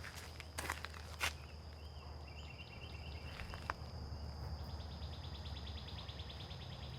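Insects calling: a steady high-pitched drone throughout, joined about four and a half seconds in by a fast pulsing trill, with a few footsteps on the trail in the first second or so.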